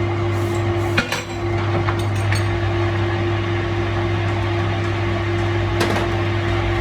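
A workshop machine running with a steady hum, over which a few metal clinks and knocks sound, the loudest about a second in and another near the end.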